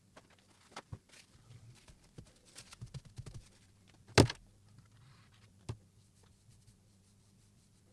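Light clicks and knocks from a guided knife-sharpening system being handled, with one sharp, loud click about four seconds in and a smaller one nearly two seconds later.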